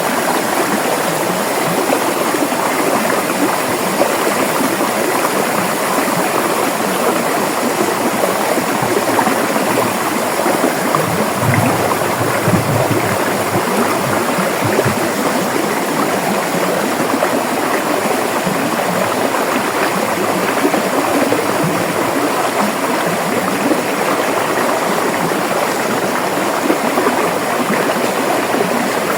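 A river flowing over rocks: a steady, dense rush of running water, with some deeper surges of water about a third of the way through.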